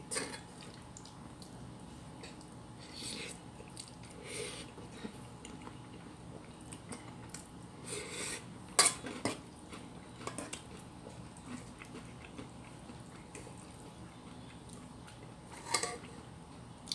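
Cutlery clinking and scraping against dishes during eating: scattered light clicks and short scrapes, the sharpest click about nine seconds in.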